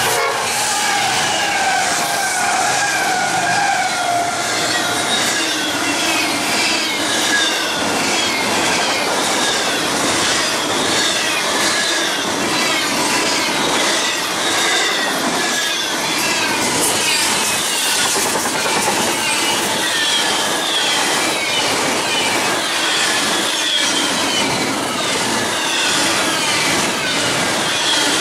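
Union Pacific double-stack intermodal freight train passing at speed: the lead diesel locomotives go by first, then a long run of container cars. Wheels beat a steady rhythmic clatter over the rail joints, with high squealing from the wheels throughout.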